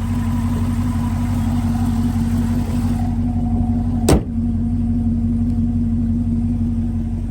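A 6th-gen Camaro SS's V8 idling steadily, running healthy with its misfire cured by new spark plugs and wires. About four seconds in, one sharp slam as the hood is shut.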